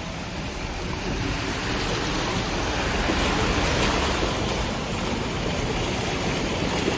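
Steady rushing noise of a moving vehicle, growing slightly louder around the middle.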